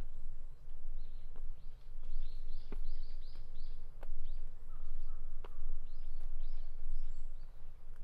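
A small songbird calls in two quick runs of short, high, down-slurred chirps. Under it, footsteps sound on a hillside path about every second and a bit, over a steady low rumble.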